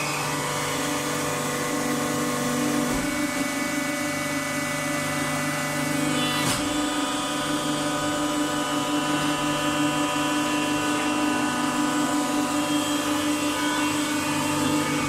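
Automatic waste-paper baling machine running with a steady multi-tone machine hum, with a single sharp clunk about six and a half seconds in.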